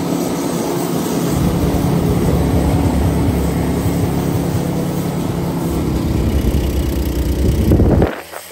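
An engine running steadily at a constant speed, cutting off abruptly near the end.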